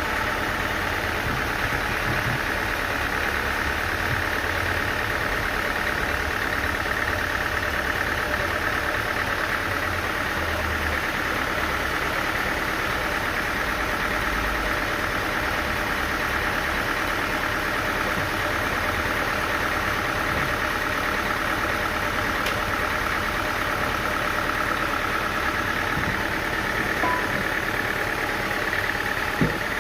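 Sawmill engine running steadily, with a single sharp knock near the end.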